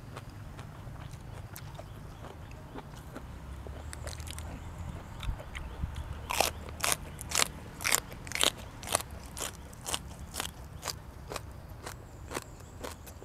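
Close-miked chewing of crunchy food: scattered small clicks at first, then steady crunches about twice a second from about six seconds in, loudest at first and fading toward the end.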